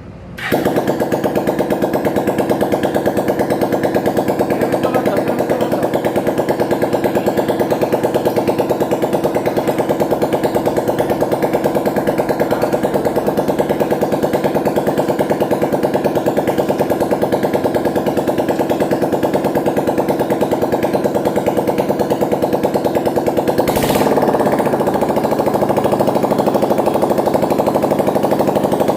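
Freshly rebuilt Bajaj Pulsar single-cylinder four-stroke motorcycle engine catching about half a second in and then idling steadily on its first run after the rebuild. About 24 seconds in it picks up a little and runs slightly louder.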